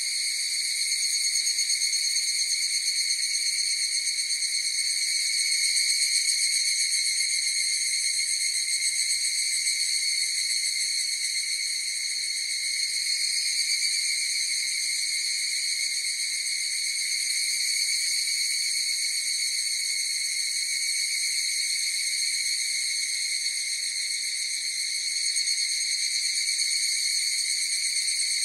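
Chorus of higurashi (evening cicadas) calling in a steady, unbroken high-pitched ring that swells and eases slightly in loudness.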